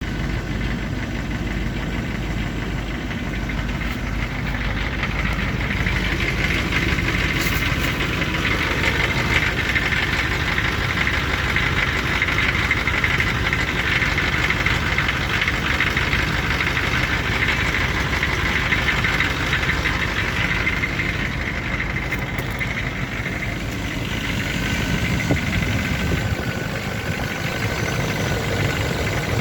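Rover engine running at a steady idle with a knock whose cause the owner can't pin down.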